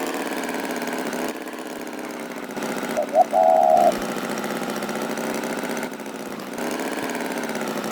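Steady engine-like running sound, with a short bright tone about three seconds in.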